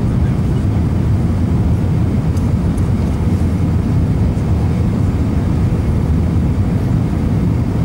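Airbus A320 cabin noise on final approach: a steady low rumble of engines and airflow heard from inside the passenger cabin.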